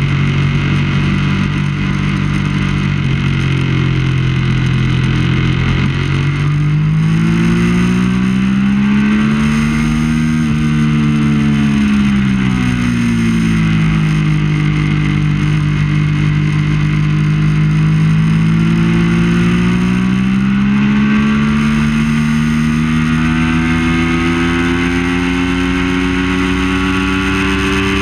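Triumph Daytona 675's inline three-cylinder engine running at moderate revs. The note holds steady for several seconds, swells up and back down twice, then climbs slowly and smoothly.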